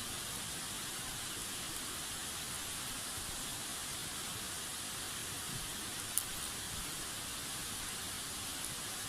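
Wood fire burning with a steady hiss and one sharp crackling pop about six seconds in.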